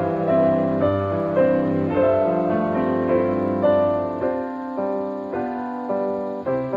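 Background piano music, slow and gentle, with notes sounding about twice a second.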